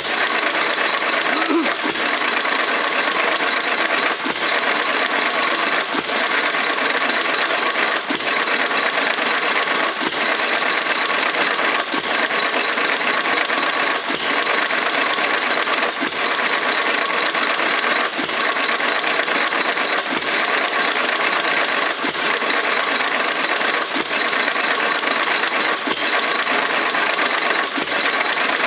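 1925 Jaeger 2 hp single-cylinder hit-and-miss engine running, with a sharp beat about every two seconds over steady mechanical noise.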